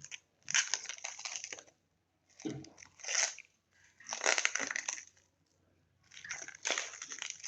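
Packaging being pulled and handled, crunching and crinkling in four bursts of about a second each.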